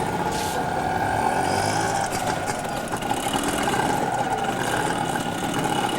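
A motor vehicle's engine running steadily, a constant drone with no change in pitch.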